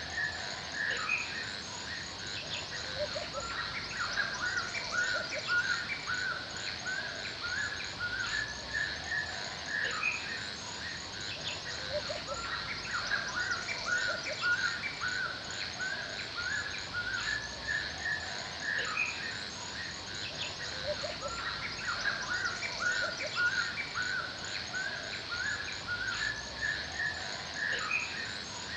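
Forest ambience: songbirds chirping in quick repeated notes, over a steady high hiss and a fast, even, high-pitched chirping like insects.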